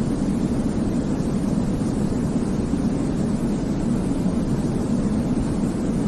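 Continuous white-noise sleep sound, weighted toward the low end so it comes across as a deep, even rumble rather than a hiss. It does not change or break.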